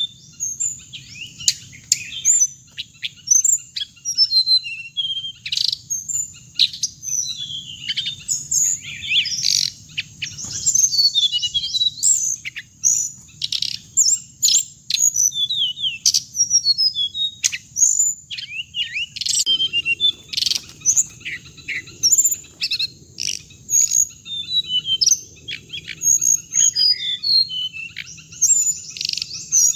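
Many hồng hạnh songbirds chirping and twittering in a dense, continuous chorus of short, high, quick notes. This is the kind of call recording played through a loudspeaker to lure the birds into a trap.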